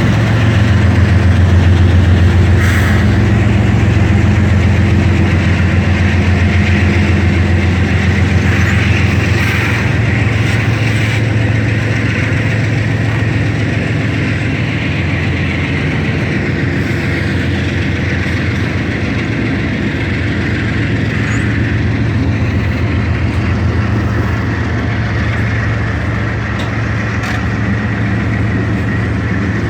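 Diesel freight locomotives running with a steady low engine drone that slowly fades a little as the train goes by.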